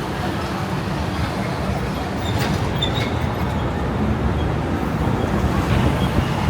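Busy city traffic: a steady, low rumble of vehicles, with a few faint clicks about two and a half seconds in.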